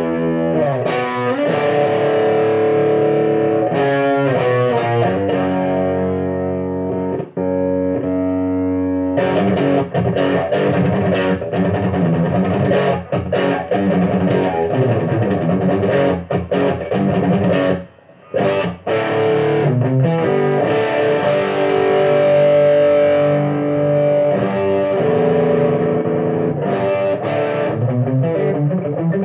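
Electric guitar (a Fender with three humbuckers) played through effects pedals into a Marshall AVT50 amplifier: chords and single notes left ringing, with a brief break about eighteen seconds in.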